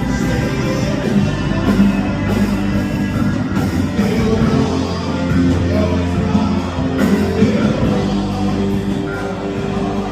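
A gospel worship band playing a song, with guitar and singing over a full band.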